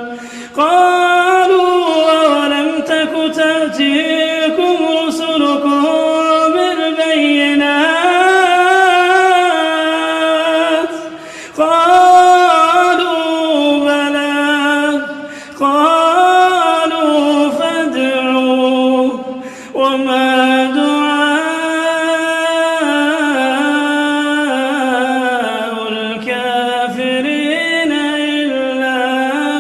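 Quran recitation chanted unaccompanied in a melodic tajweed style: one voice drawing out long, ornamented notes that bend up and down, with short pauses for breath a few times.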